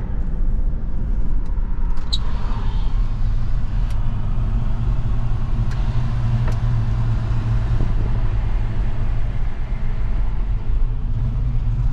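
1984 Chevy C20 pickup truck driving on the road: steady engine and road noise.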